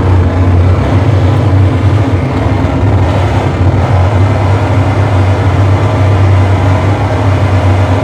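Loud live harsh-noise performance: a dense wall of distorted electronic noise over a heavy, steady low drone.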